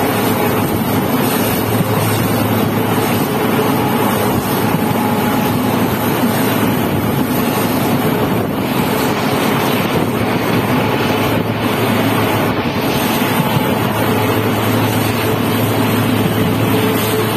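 Passenger train coach running at speed: a steady rumble of wheels on rails, with wind rushing past the open doorway and a steady low hum underneath.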